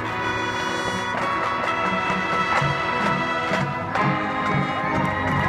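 Marching band playing: the brass holds sustained chords over a steady low beat.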